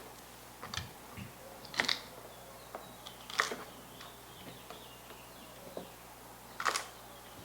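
A few light, sharp knocks and clicks spaced one to three seconds apart, from produce and kitchen containers being handled on the counter.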